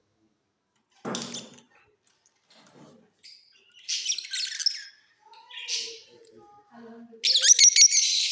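Lovebirds chirping in short, separate bursts, then a loud, rapid run of high-pitched chirps near the end.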